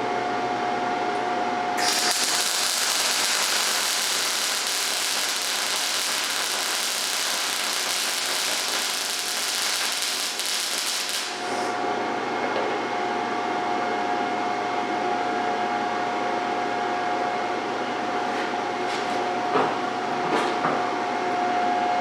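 MIG welding arc sizzling and crackling steadily for about nine seconds as a bead is run, starting about two seconds in and stopping abruptly. A steady hum runs before and after, with a few sharp clicks near the end.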